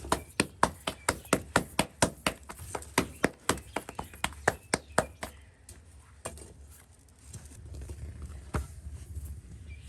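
A rapid, even series of sharp knocks, about four a second for some five seconds, then a few scattered taps and one more knock near the end.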